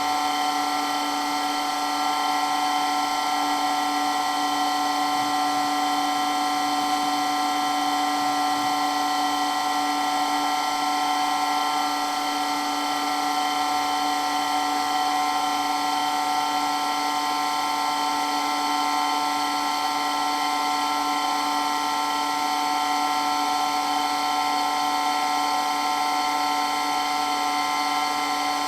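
Water pump running with a steady, very loud whine made of several pitches held at once, unchanging throughout.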